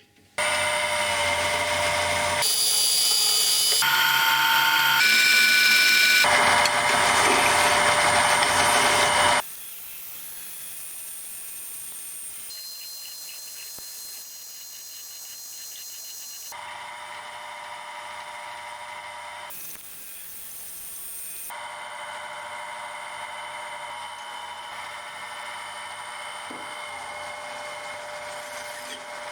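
Power tools running in a workshop, a steady whine with grinding noise. It changes abruptly every few seconds as one short clip cuts to the next, loudest for the first nine seconds and quieter after that.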